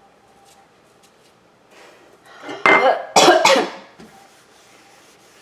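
A man coughing: two loud coughs in quick succession about midway through.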